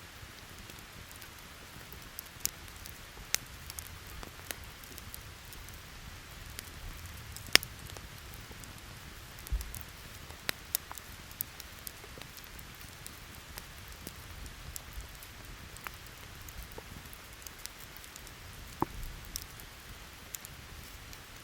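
Steady rain hiss with a campfire crackling: a dozen or so sharp, irregular pops from the burning wood, the loudest about seven and a half seconds in.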